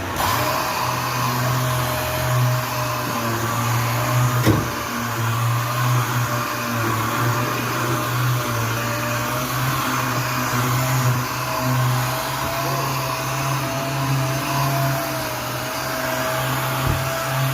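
Orbital sander running steadily with a constant whine, sanding epoxy primer on a car body panel with 240-grit paper; it starts suddenly at the beginning.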